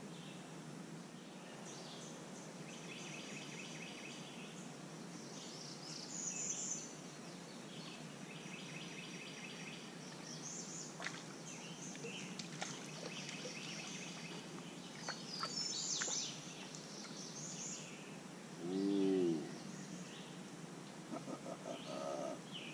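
Blackwater swamp ambience: songbirds chirping and singing short repeated trills over a steady background hiss. Near the end comes one brief, louder, lower-pitched call.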